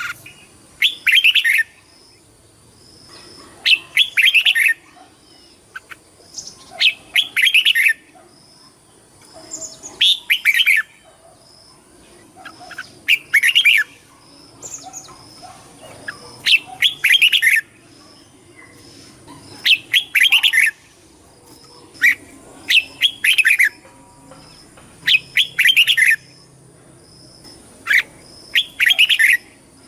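Red-whiskered bulbul singing: short, bright whistled phrases repeated about every three seconds, often two in quick succession.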